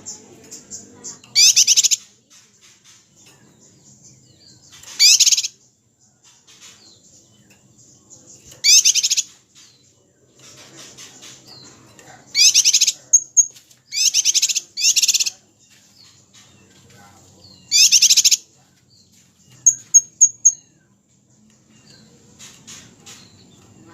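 Small songbird song from a masteran recording for tutoring contest birds: seven short, high, rapid trilled bursts of about half a second each, a few seconds apart, with a few quick high chirps near the end.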